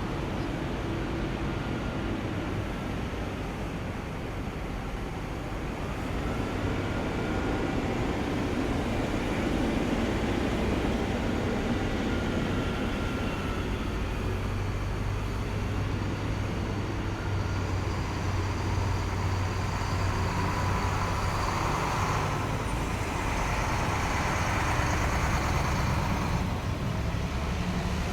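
Heavy military vehicles driving past in a column, with a continuous deep engine drone that swells about six seconds in. A high whine joins the engine noise in the second half.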